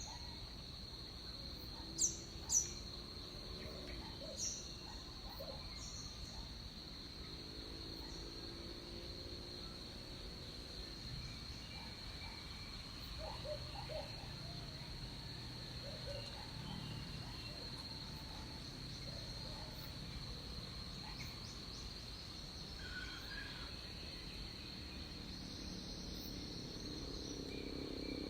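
Rainforest morning chorus: insects droning steadily at one high pitch, with scattered bird calls over it. Two sharp high chirps about two seconds in are the loudest sounds.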